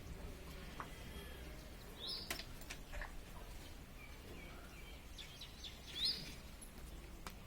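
A bird gives short, high chirps about two seconds in and again near six seconds, over a steady low rumble, with a few faint clicks.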